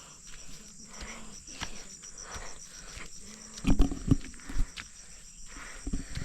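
Footsteps walking along with insects shrilling steadily in the background. A cluster of heavier knocks and thumps comes a little past halfway.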